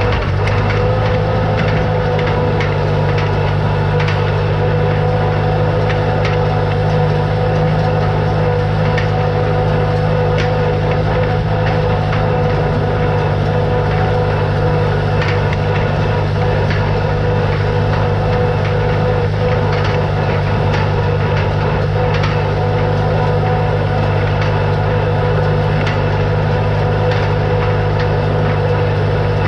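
Tractor engine running at a steady speed, with faint irregular clicks and rattles over the drone.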